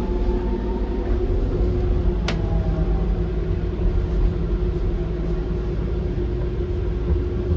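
Docklands Light Railway B92-stock train heard from inside while running between stations: a steady low rumble with a constant humming tone. One sharp click about two seconds in.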